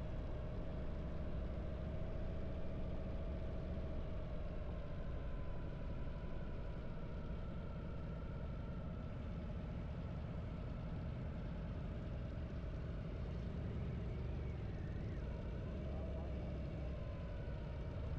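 Harley-Davidson V-twin motorcycle engine running at a steady cruise under way, its pitch drifting only slightly with small changes in speed.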